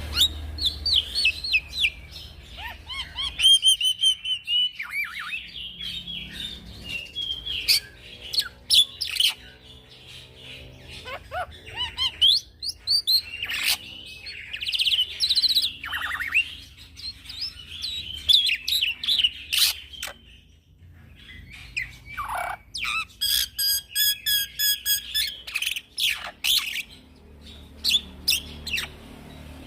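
A young black-winged starling (jalak putih) singing a long, varied song of whistles, chirps, harsh notes and fast rattling trills, falling quiet about three seconds before the end.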